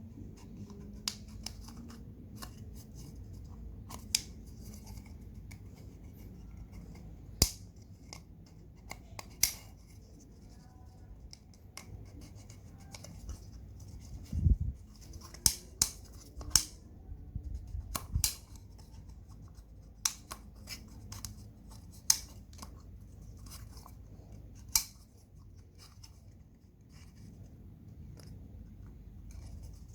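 Scattered sharp metallic clicks and taps, irregularly spaced, from hand tools and parts being handled during an oil change, with a dull low thump about halfway through.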